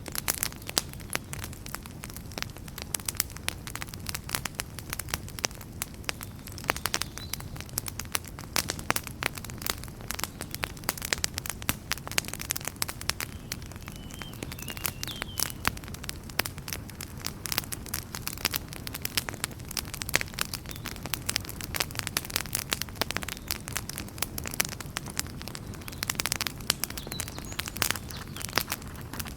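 Wood campfire crackling, with many irregular sharp snaps and pops over a steady low rumble of the flames.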